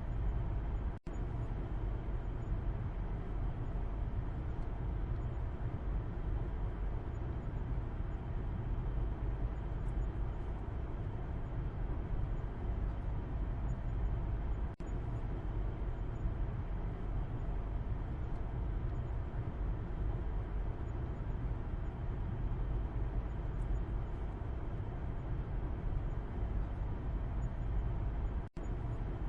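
Steady low rumble of road and engine noise heard from the back seat inside a moving car. It cuts out for an instant three times.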